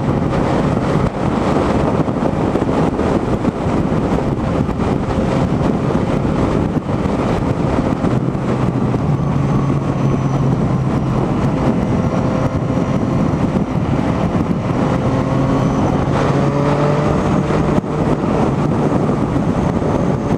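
Wind rushing over the microphone on a moving motorcycle, with the steady drone of the Yamaha MT's engine at cruising speed underneath; the engine tone comes through more clearly in the middle.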